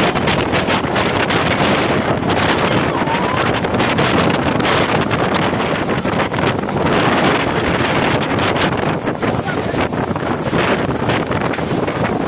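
Strong storm wind blowing hard across the microphone, a loud steady rushing noise that swells slightly now and then.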